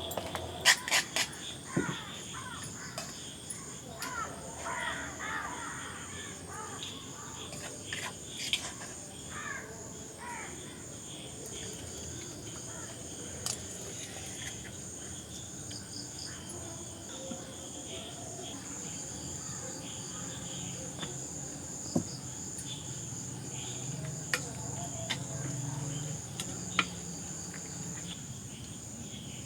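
Steady high-pitched drone of insects, crickets or similar, running throughout. Birds call in the first ten seconds or so, and a few sharp knocks are scattered through the rest.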